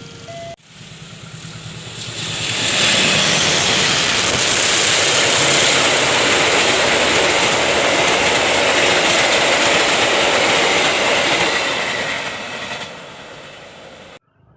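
A train passing at speed. Its rushing, rattling noise builds over about two seconds, stays loud for about ten seconds, then fades away. The crossing alarm's steady tones are heard for a moment at the very start.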